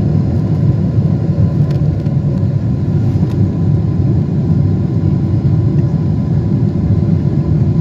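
Steady low rumble of a Boeing 747's engines and airflow, heard from inside the passenger cabin, with a faint steady whine above it.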